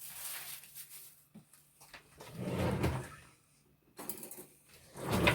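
Kitchen handling noises: a few knocks, bumps and clicks from containers and utensils being moved about, with a short lull near the middle.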